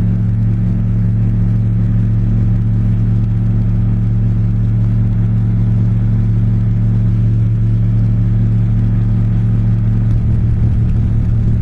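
Slipstream Genesis ultralight's Rotax 912 flat-four engine and three-blade propeller running steadily, throttled back on a slow approach at about 40 knots. The engine note shifts slightly about ten seconds in.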